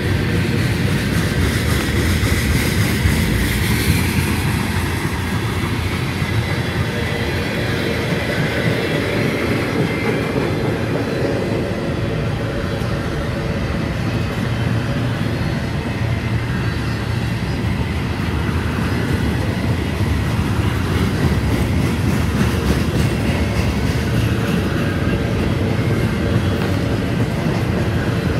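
Freight train of covered hoppers, tank cars and boxcars rolling past close by: a steady rumble and rattle of steel wheels on the rails.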